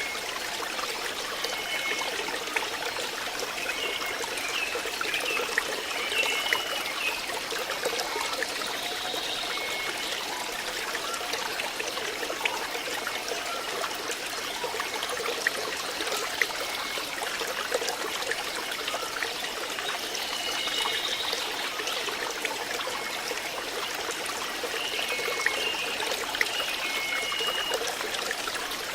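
Flowing water trickling steadily, with short high chirps now and then.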